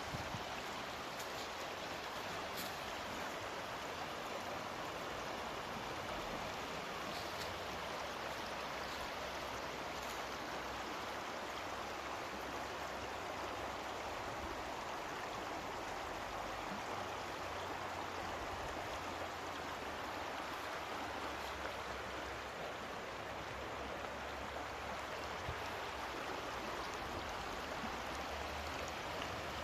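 River water flowing, a steady rush of noise that doesn't change.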